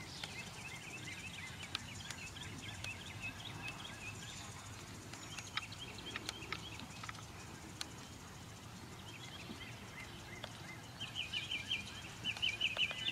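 Songbirds chirping and trilling over low outdoor background noise, with a rapid run of high chirps getting louder near the end.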